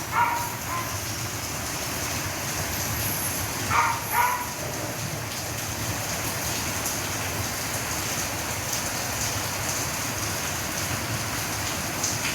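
Rain falling steadily, with a dog barking two or three times near the start and again about four seconds in.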